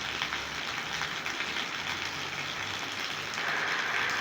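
Heavy rain pouring down steadily, a bit louder near the end.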